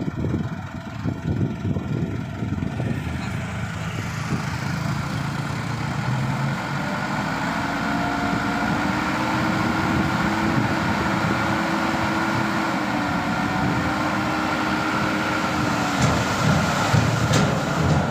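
Mitsubishi Canter PS125HD dump truck's diesel engine running, then held at raised revs for several seconds while it drives the hydraulic hoist tipping the bed of fill soil. A few knocks near the end.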